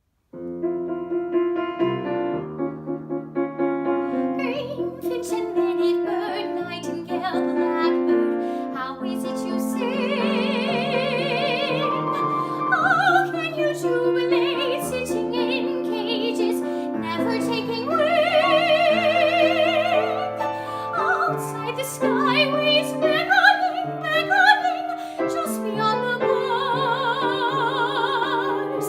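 Soprano singing a musical-theatre song with vibrato, accompanied by piano.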